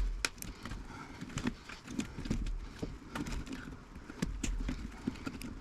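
Irregular small clicks and taps of hand tools and small metal parts being handled while dismantling an old vacuum-tube radio chassis.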